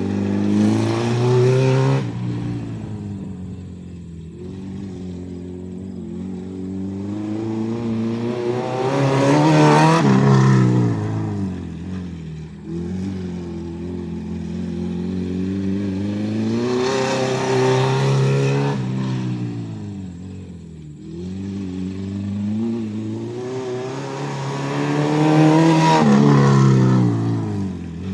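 Acura RSX's four-cylinder engine accelerating hard and easing off in repeated cycles about eight seconds apart, four times, its pitch climbing with the revs and dropping as it lifts.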